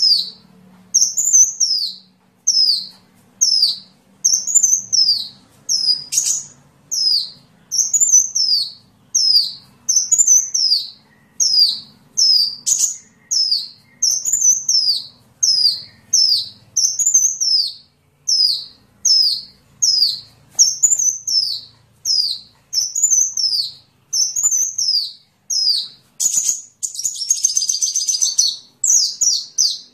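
Sunbird song: a high, curved whistled note repeated about once a second, then a fast, dense trill near the end.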